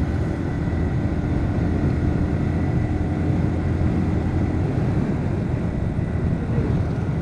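Bajaj Pulsar NS125 motorcycle at riding speed: the engine running steadily under a constant low rumble of wind on the microphone.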